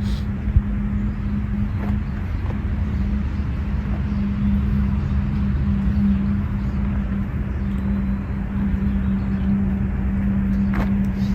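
Steady low hum of an engine running at a constant speed, with a rumble beneath it. Faint bird chirps come and go above it.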